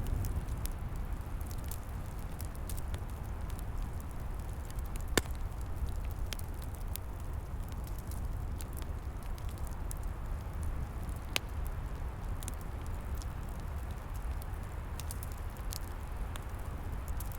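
Wood fire crackling, with scattered sharp pops (two louder ones, about five and eleven seconds in) over a steady low rumble of flames and wind.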